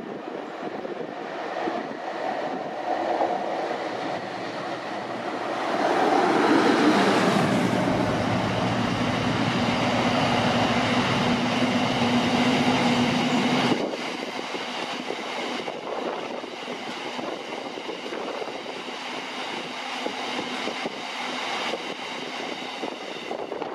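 A train passing through a station: rolling noise builds, is loudest for about eight seconds with a steady low engine hum, then drops suddenly about fourteen seconds in to a lighter, steady rolling sound with high whining tones.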